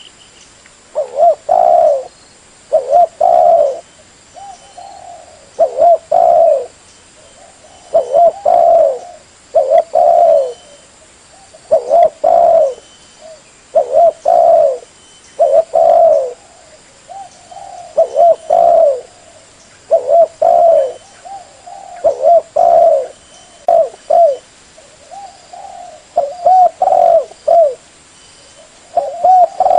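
Spotted dove (tekukur) cooing over and over: loud phrases of two or three coos about every two seconds, with fainter coos in between.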